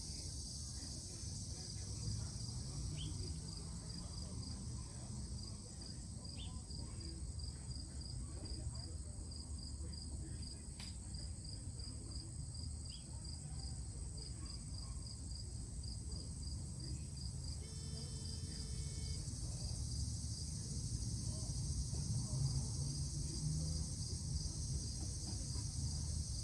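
Insects chirping: a steady train of short, high, evenly spaced chirps, about two to three a second, over a continuous high insect hum, with a low rumble underneath.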